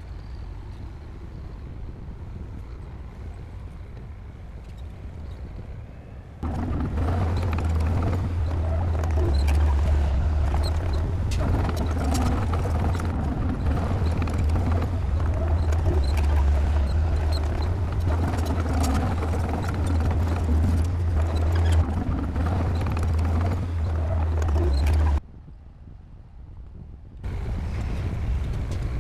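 Heavy earthmoving machinery at work: a diesel engine running steadily with a deep drone and a scatter of small clanks and ticks. It gets much louder abruptly about six seconds in, drops sharply near the end, then comes back.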